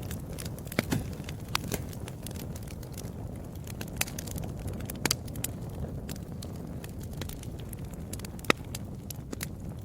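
Wood fire crackling, irregular sharp pops and snaps over a steady low rumble of burning, with one louder pop near the end.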